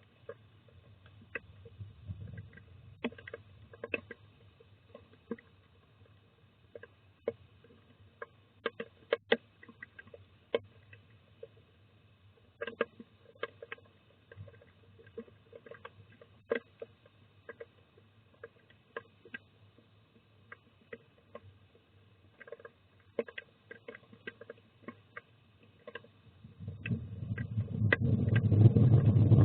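Scattered sharp taps and clicks inside a tits' nest box, then a loud low rumble that builds over the last few seconds, thunder from the storm.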